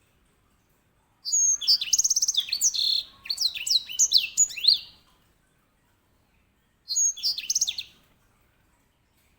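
Grey singing finch (white-rumped seedeater, Serinus leucopygius) singing its rolling song. A phrase of about four seconds of fast trills and sweeping high whistles is followed, after a two-second pause, by a shorter phrase of about a second.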